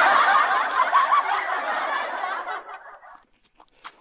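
Laughter sound effect, many voices laughing together, fading out over about three seconds, followed by a few faint eating clicks.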